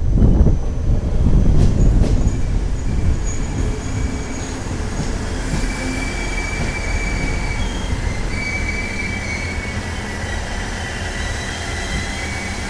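Passenger train rolling along a platform close by: a heavy low rumble at first, then from about five seconds in, high steady wheel squeals that come and go over the running noise.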